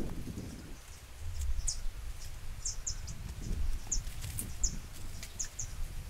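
A small bird calling in short, high chirps, about one or two a second, over soft low thumps and rustling.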